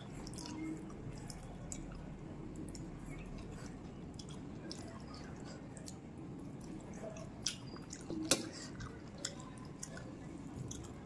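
A person chewing a mouthful of rice and curry, with soft wet mouth clicks throughout and a couple of sharper clicks about seven and a half and eight seconds in.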